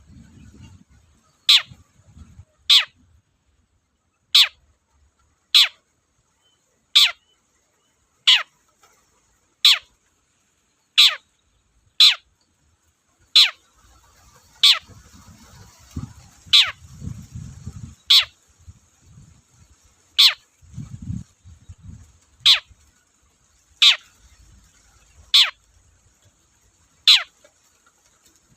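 Long-tailed shrike (cendet) giving a sharp call that sweeps steeply down in pitch, repeated about once every second and a half as a lure call. Low rumbling noises come and go between some of the calls.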